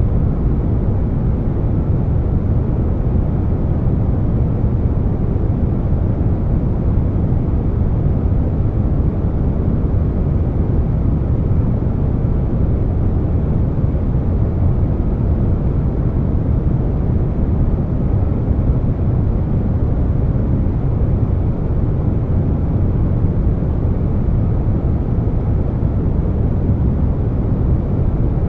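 Continuous air-conditioner noise blended with brown noise: an even, deep rush, heaviest in the bass, with no changes.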